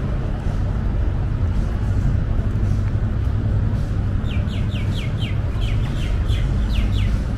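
Steady low background rumble. About four seconds in, a bird gives a quick run of a dozen or so short descending chirps that lasts about three seconds.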